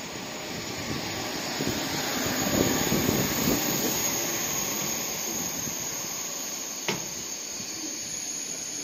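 OUIGO TGV Duplex high-speed train running past on the adjacent track: a steady rushing noise that swells about two to three seconds in and then eases off, with a single sharp click about seven seconds in.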